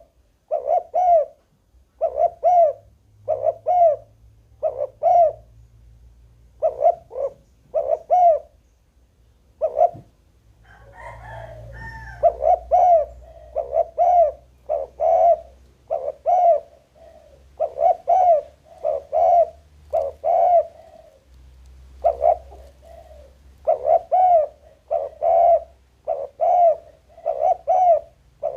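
Spotted dove cooing over and over in short phrases of two or three coos, with brief pauses between phrases.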